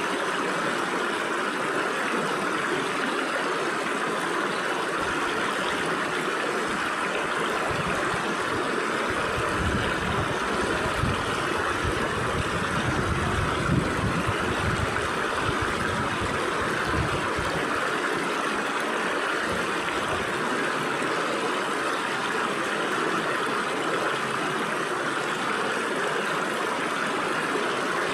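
Stream water flowing through gaps between rocks, a steady rush with gurgling. A low rumble comes in under it from about five seconds in and fades out near eighteen seconds.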